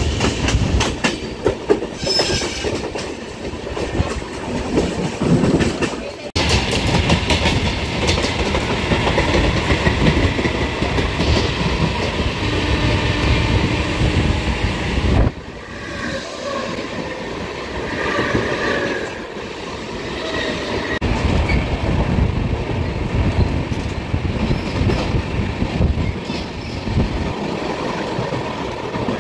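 Passenger train running on the rails, heard from on board: a continuous rumble with the clickety-clack of wheels over rail joints. The level drops suddenly about fifteen seconds in.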